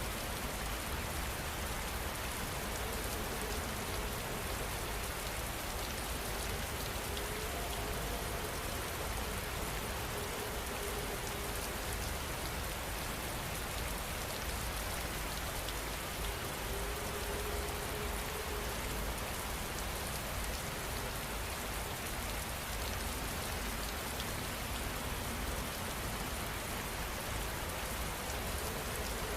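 Steady rain falling and pattering on surfaces: an even, unbroken hiss with a low rumble underneath.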